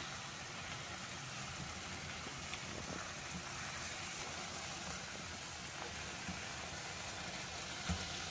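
Chicken and green peas sizzling in a pan as a steady, even hiss, with a soft knock of the spatula near the end.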